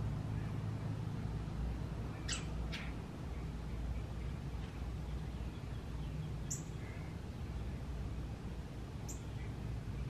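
Short, sharp bird calls sliding steeply down in pitch: two in quick succession about two seconds in, then single calls around six and a half and nine seconds. A steady low rumble runs underneath.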